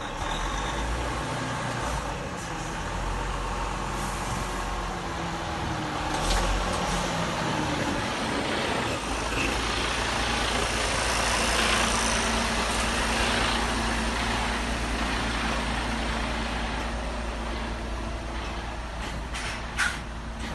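Truck engine running, its low tones shifting over the first several seconds and then settling into a steady rumble. A single sharp click comes near the end.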